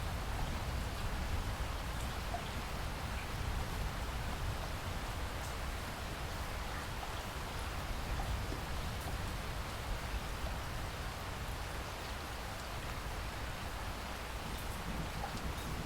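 Steady rain falling: an even hiss of rain with a low rumble underneath and a few faint drop ticks.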